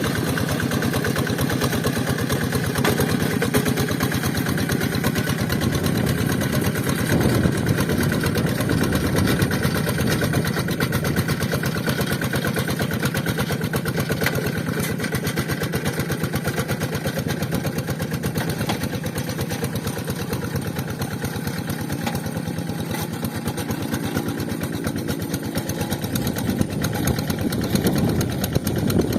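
Two-wheel rice-field hand tractor's single-cylinder diesel engine running steadily with a fast, even chugging, working in the paddy.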